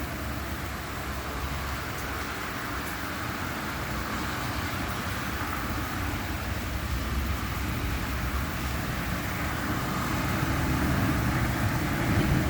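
Road traffic on wet pavement: a steady hiss of tyres that grows louder toward the end, as a vehicle comes closer.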